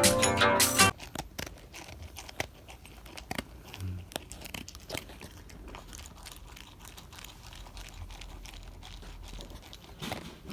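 A Shiba Inu eating its meal, crunching its food in many quick, irregular bites. Guitar music stops about a second in.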